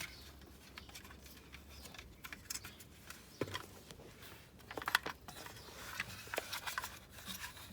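Irregular light clicks and knocks of a fitting being twisted onto a pond pump by hand, with the sharpest click about five seconds in.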